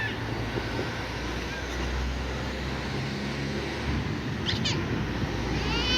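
Heavy diesel trucks running with a steady low rumble, with a brief high squeak about four and a half seconds in and a drawn-out high, wavering squeal starting near the end.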